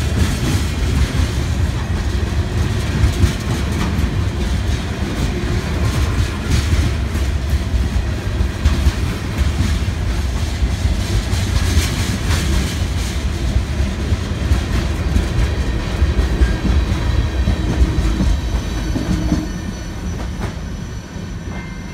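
Freight cars of a manifest train rolling past close by: a steady low rumble of steel wheels on rail, with clicks as the wheels cross rail joints. The sound eases off in the last few seconds.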